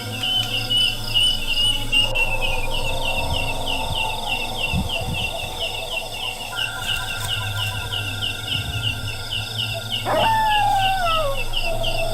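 Outdoor insect chorus: a fast, even chirping that repeats without pause, layered with other steady insect or animal calls. About ten seconds in, a louder call slides down in pitch.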